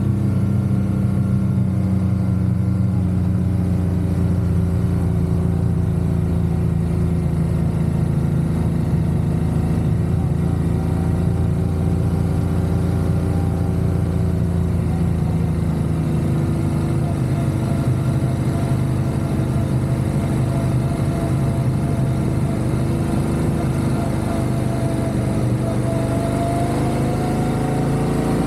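Motorcycle engine running steadily while riding at a cruise, its pitch rising a little near the end.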